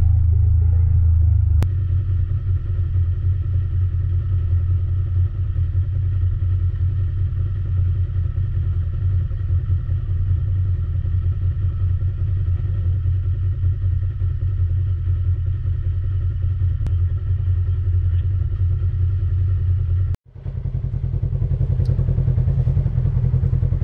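Side-by-side UTV engine running steadily while driving, a low drone with a steady pitch; it cuts out for a moment near the end, then resumes.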